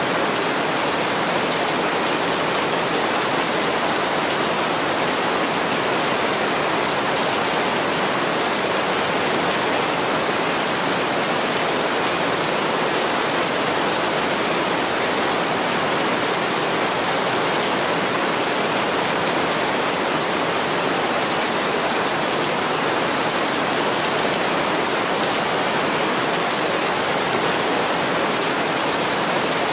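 Heavy rain pouring steadily on window glass, an even, unbroken hiss.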